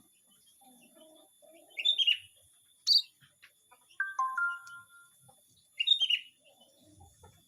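Small birds, emprit (munias), chirping: short, sharp falling chirps about two, three and six seconds in, with a lower, drawn-out stepped call about four seconds in.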